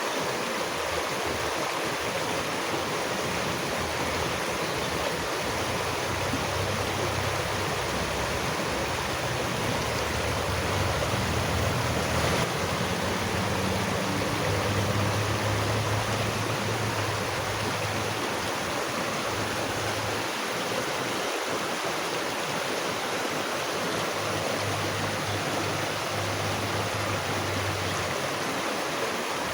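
Stream water rushing steadily, with a low rumble that swells up in the middle and again near the end.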